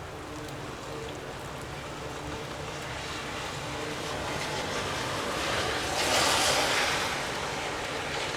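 Gusty wind blowing. It builds to a strong gust about six seconds in, then eases.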